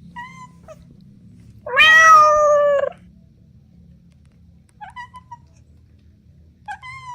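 Cat meowing: one loud, drawn-out meow lasting about a second, sliding slightly down in pitch, with a few short, higher-pitched mews before and after it.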